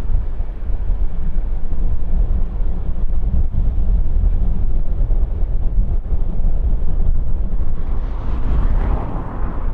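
Wind buffeting an outdoor microphone as a loud, steady low rumble, with a rushing swell rising and fading near the end.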